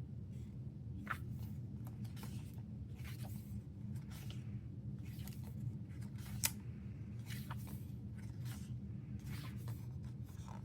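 Pages of a glossy album photobook being turned and handled: scattered light paper rustles and soft snaps, with a sharper click about six and a half seconds in, over a steady low room hum.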